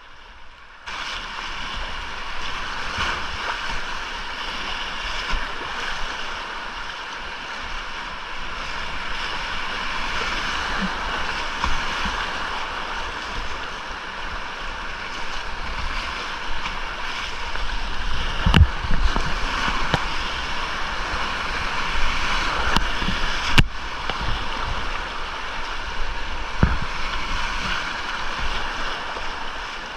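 Rushing whitewater on a small creek, heard close up from a kayak. The sound comes in abruptly about a second in, with a few low thumps, the loudest about two-thirds of the way through, as the boat and paddle knock against water and rock.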